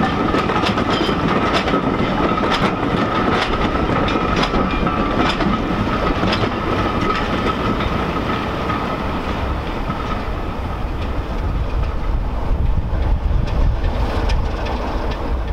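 A heritage train of vintage wooden-bodied coaches rolls past, its wheels clicking over the rail joints with a steady high squeal, both fading by about two-thirds of the way through. A deeper rumble then builds near the end.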